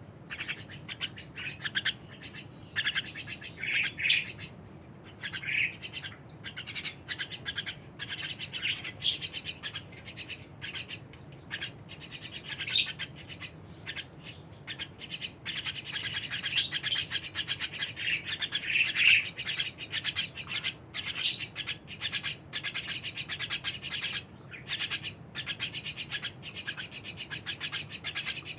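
Songbird chirping and twittering in a continuous stream of short, high notes with frequent quick repeated ticks, growing busier and louder about halfway through.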